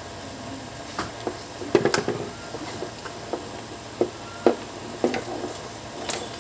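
Irregular knocks and clicks of hard objects being handled, about eight in all, with a quick cluster of them about two seconds in, over a faint steady hum.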